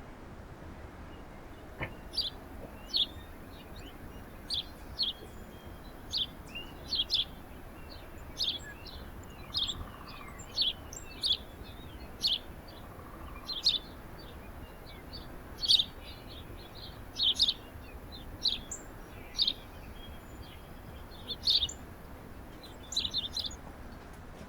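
Small songbirds chirping: short, high chirps, about one or two a second, some in quick pairs.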